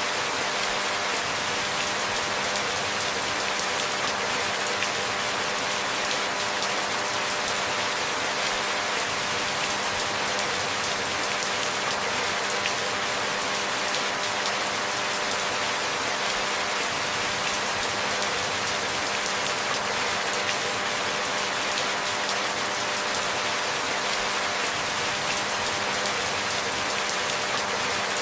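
Steady rain: an even hiss of many small drops pattering.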